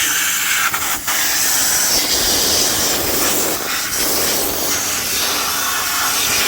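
Compressed-air blow gun hissing steadily as it blasts water and grime out of an engine, with two brief breaks about a second in.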